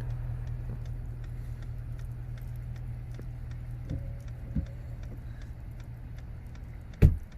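Steady low hum inside a stationary pickup truck's cabin, with a faint, fast, regular ticking over it. A single sharp thump about seven seconds in.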